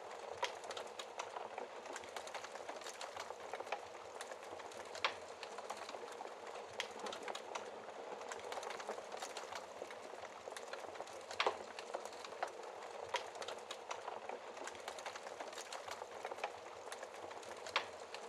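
Wood fire crackling in a fireplace: a steady bed of fine crackle with a few sharper pops, about five seconds in, twice in quick succession past the middle and once near the end.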